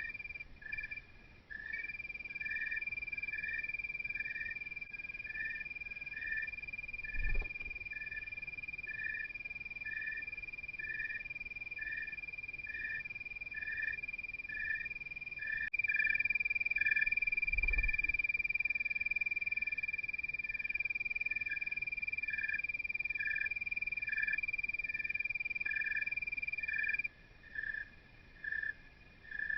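Night chorus of calling animals: a continuous high trill with a pulsed chirp repeating about twice a second over it. There are two dull low thumps, one about a quarter of the way in and one past the middle, and the trill breaks off near the end.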